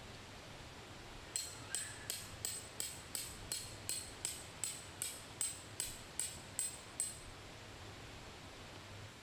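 A hammer driving a tent stake into the ground: about sixteen even strikes, a little under three a second, each with a short high metallic ring.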